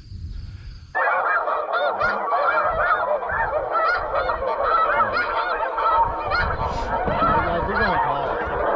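A large flock of geese honking, many overlapping calls at once, starting abruptly about a second in and keeping up steadily.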